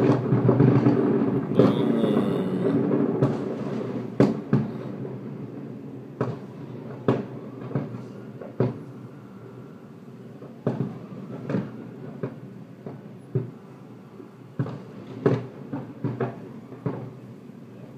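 Aerial fireworks shells bursting: a dense, rolling rumble of overlapping booms that dies away over the first few seconds, then scattered sharp bangs about one a second that grow fainter toward the end.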